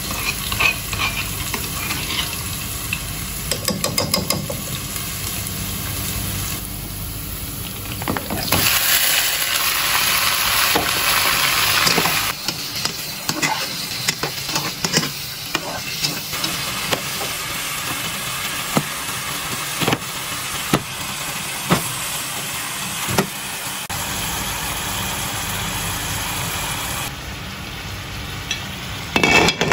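Hot oil sizzling in a pot as food fries, loudest for a few seconds about a third of the way in. Then a metal spatula stirs chunks of meat, with repeated clicks and knocks against the pot.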